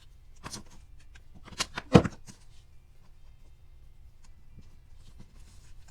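Plastic toy pieces being handled, with a few knocks and clicks, the loudest about two seconds in.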